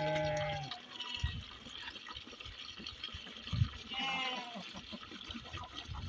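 Livestock bleating twice, once at the start and again about four seconds in, each call under a second long, over a low trickling, watery noise.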